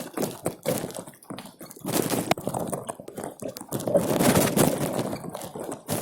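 Heavy rain and running water splashing, with irregular knocks and rustles throughout, louder for a second or so about four seconds in.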